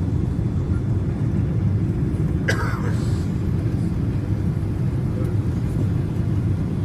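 Steady low rumble of an airliner's cabin noise, with one brief sharp click about two and a half seconds in.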